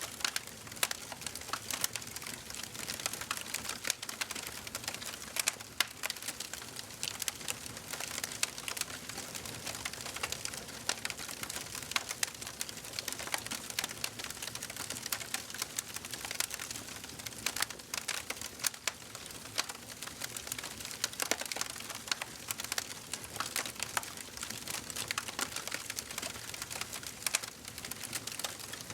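Wood fire burning in a fireplace, crackling steadily with many sharp irregular pops and snaps over a soft hiss.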